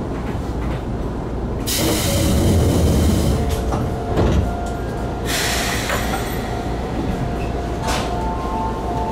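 Stationary electric commuter train (Izuhakone 5000 series) with a steady low hum. About two seconds in comes a loud hiss lasting about three and a half seconds, with a single thump near its end.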